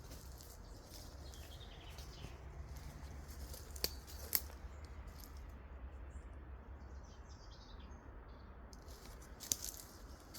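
Faint wild birds chirping over a steady low rumble of wind or handling noise, with two sharp snaps about four seconds in.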